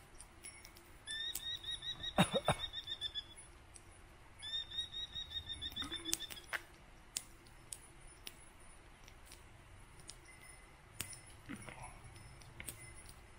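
A rapid, high trill of repeated notes sounds twice, each lasting about two seconds, from a small wild animal, a bird or a squirrel. Scattered light clicks and clinks of breakfast things come in between.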